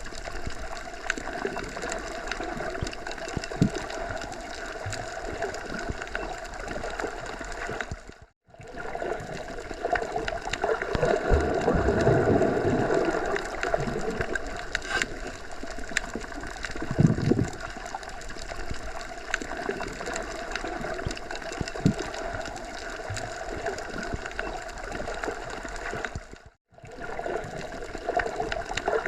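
Forest ambience of steady wind rustling through trees, with faint short chirps scattered through it. The sound drops out completely for a moment twice, about 8 seconds in and near the end.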